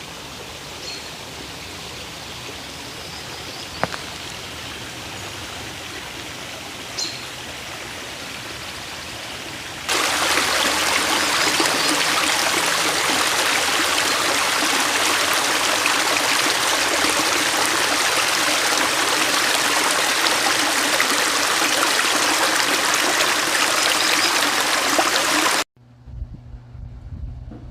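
Steady rushing water. It gets much louder and fuller at a cut about ten seconds in and stops suddenly near the end.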